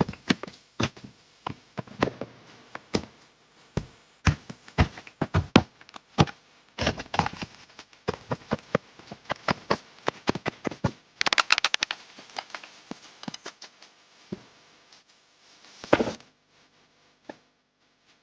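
Irregular knocks and taps of hand work with tools and building materials. A quick run of rapid strikes comes about eleven seconds in, and a short scraping rush follows near the end.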